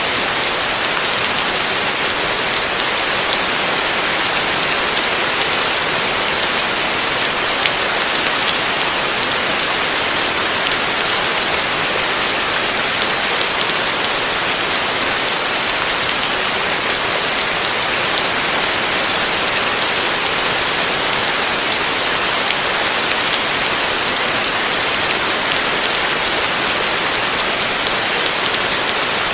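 Heavy rain falling steadily on a roof: a dense, even hiss of drops that does not let up.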